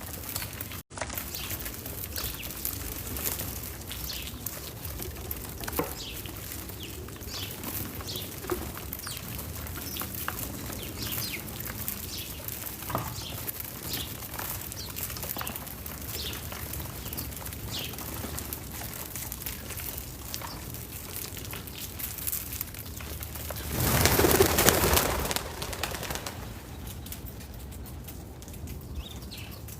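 Small backyard birds chirping here and there over a steady outdoor background. About three-quarters of the way in, a loud rushing burst lasts about two seconds.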